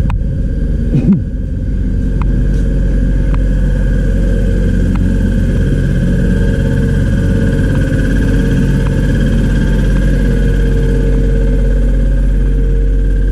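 A motor running steadily with a loud low hum, with a brief louder bump about a second in.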